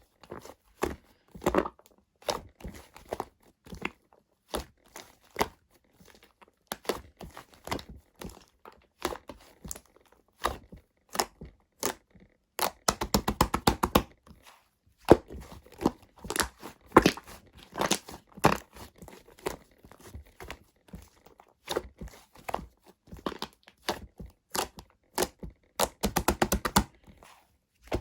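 Shaving foam being mixed into slime by hand, giving irregular wet squishing pops and clicks. Twice the pops come in fast crackling runs, about halfway through and near the end.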